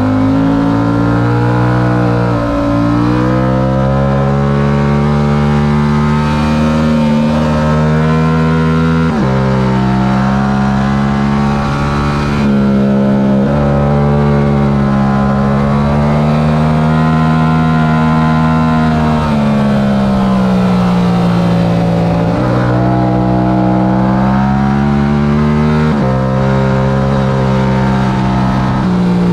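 Stock Yamaha R7's 689 cc parallel-twin engine at race pace, revs climbing and dropping sharply several times as gears change, with a longer fall in revs in the middle.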